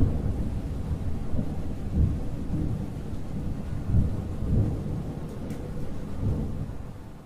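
Thunder rumbling in rolling swells with rain falling, the rumble fading away near the end.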